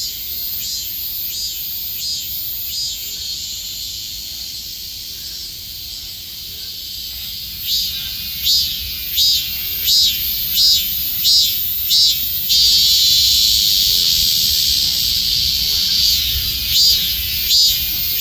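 Korean robust cicada (Hyalessa maculaticollis) singing: from about 8 s in, a run of short, evenly spaced high-pitched calls, about one and a half a second, then a long steady buzz of about three and a half seconds, then the pulsed calls again. Under it runs a steady high hiss.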